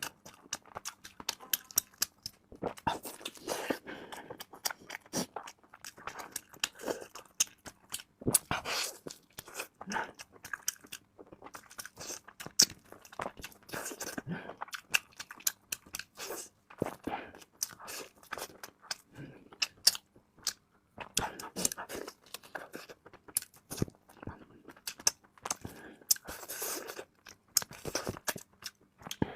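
Close-miked eating: a person biting into and chewing a chicken drumstick, with irregular crunchy bites and wet mouth clicks.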